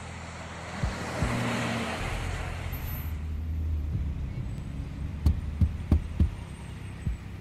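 A car driving up, its road and engine noise swelling and fading over the first three seconds. Then a steady low engine hum, with four sharp clicks about a third of a second apart and one more a second later.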